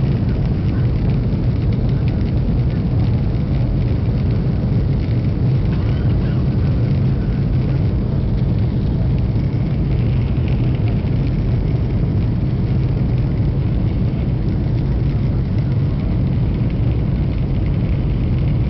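Passenger airliner's engines running with a steady low rumble that neither rises nor falls.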